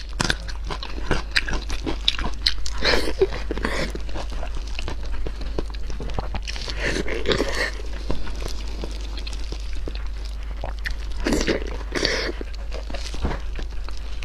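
Close-up chewing and wet mouth sounds of someone eating soft, tender braised pork belly: many small smacks and clicks, with a few louder bites or slurps about three, seven and twelve seconds in.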